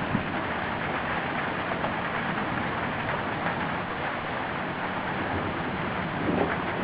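Steady rain falling during a thunderstorm, an even hiss with a slight swell about six seconds in.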